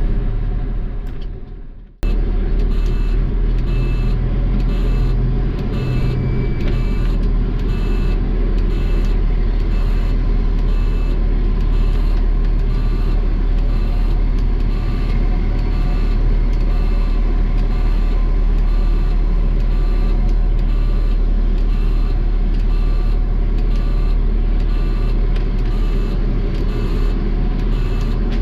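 Garbage truck's diesel engine running with a steady rumble, with a beep or tick repeating evenly about three times every two seconds. It cuts in suddenly about two seconds in, after the preceding sound fades out.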